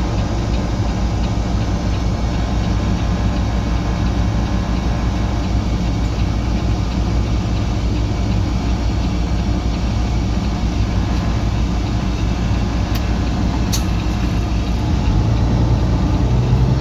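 Semi-truck's diesel engine droning steadily, heard inside the cab while driving, with a constant hiss of road and wind noise. Near the end the engine note rises slightly and gets a little louder.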